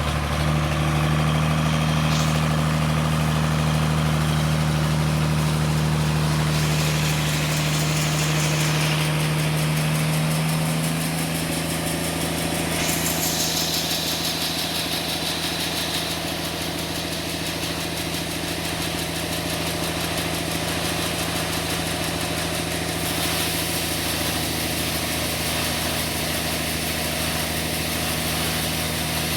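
Sawmill engine running steadily, its pitch settling slightly lower about eleven seconds in, with two stretches of high hiss over it.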